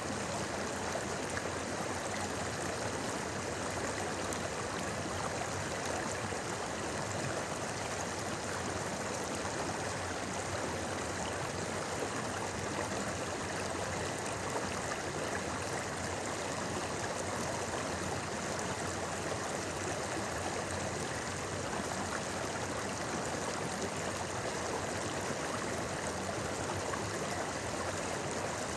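Steady murmur of a clear mountain stream flowing over rocks, with some trickling and gurgling.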